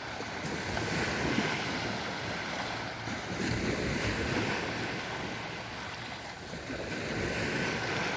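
Sea waves washing onto the shore, the surf swelling and easing a few times, with wind buffeting the microphone.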